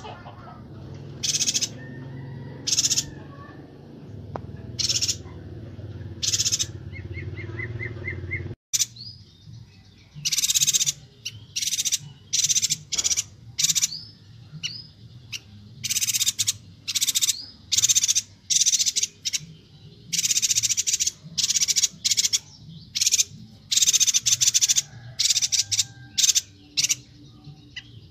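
Chestnut-crested yuhina calling: short, high-pitched chirps repeated over and over in quick clusters, more densely after an abrupt cut a little over eight seconds in. A low background hum sits under the calls until that cut.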